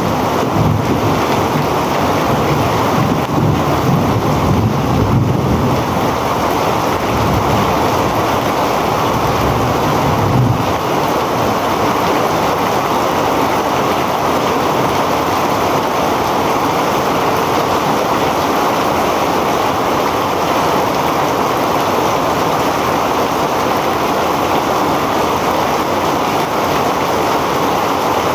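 Heavy rain falling in a steady, dense rush. Gusts of wind rumble on the microphone for about the first ten seconds, then the rain goes on evenly.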